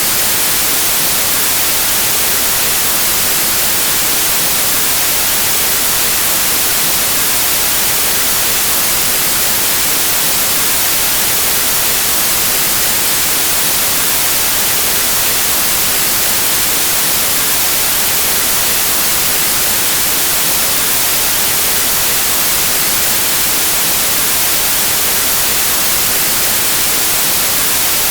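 Continuous white noise: a steady, even static hiss with no variation.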